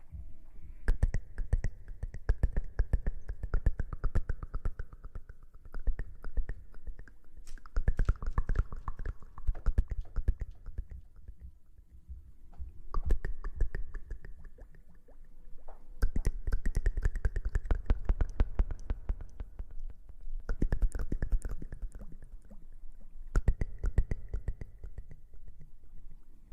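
Close-miked ASMR rustling and scratching: dense rapid crackling with a low rumble, in several long bursts with brief lulls between them.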